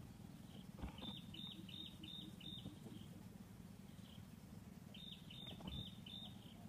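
A bird calling in two runs of short high chirps, five notes and then four, each note dipping slightly, over a faint steady low rumble. A soft knock comes just before each run.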